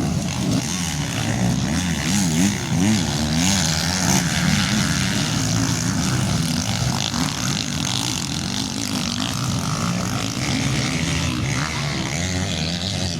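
Motocross bike engines racing, their pitch rising and falling with the throttle as the riders go round the dirt track.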